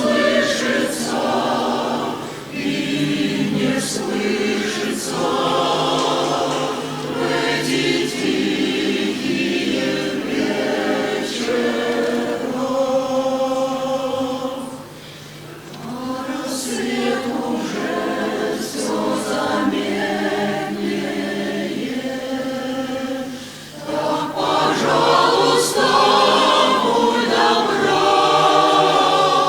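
A choir singing a song in sustained, legato phrases, with brief pauses between phrases about fifteen seconds in and again near twenty-four seconds.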